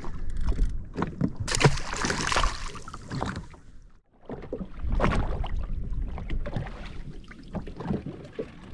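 Water lapping against the hull of an anchored jet ski and wind on the microphone, with scattered knocks and clicks from handling. A louder rush of noise comes about two seconds in, and the sound drops out briefly about four seconds in.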